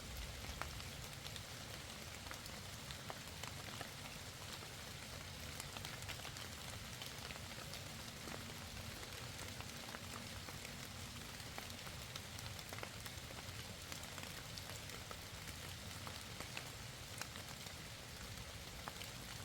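Light rain falling steadily, a soft patter with scattered individual drops ticking.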